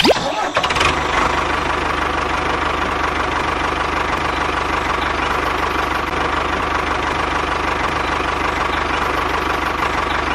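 A tractor engine running steadily at an even pace, starting abruptly at the outset.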